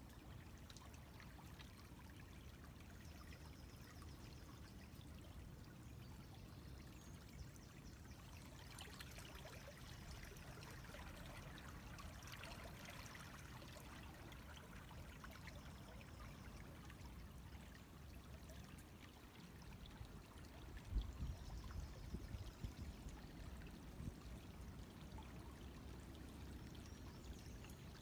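River water running and trickling, a faint steady rush that thickens in the middle. A few low thumps sound about three quarters of the way through.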